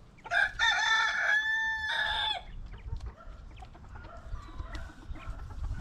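A rooster crows once, a loud call of about two seconds. Fainter calls from other chickens follow.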